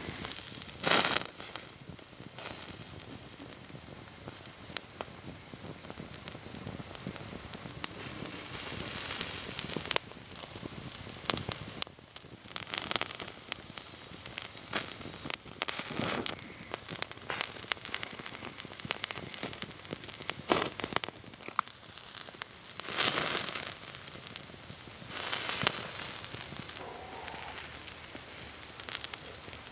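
Wood campfire crackling with many sharp pops, and several short, louder hissing flare-ups.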